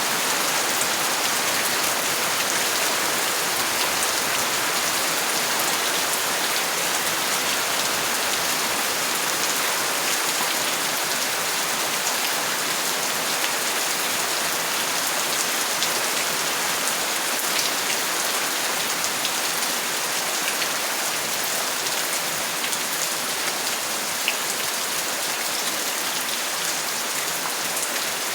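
Steady rain falling, an even hiss with scattered individual drops ticking through it and one sharper tap about 24 seconds in.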